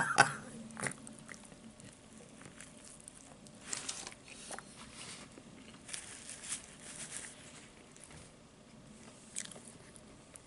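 Faint chewing of a bite of a chicken club sandwich on sourdough, with a few soft crunches and mouth noises at intervals. There is a brief rustle of a paper napkin wiped across the mouth.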